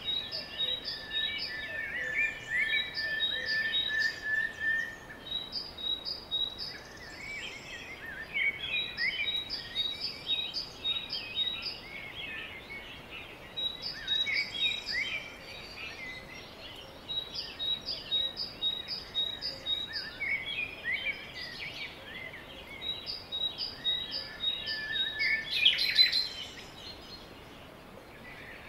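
Several songbirds singing and chirping, with quick runs of high repeated notes coming back every few seconds and a held whistled note in the first few seconds, over a faint steady hiss.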